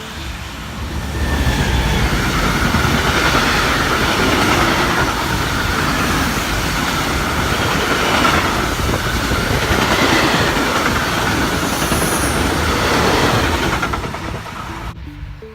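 A train passing close by: loud rushing of wheels on rail with a steady high whine, swelling about a second in and fading near the end before cutting off.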